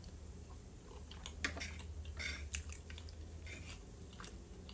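Close-miked chewing of a mouthful of fried potatoes: soft, irregular wet clicks and smacks.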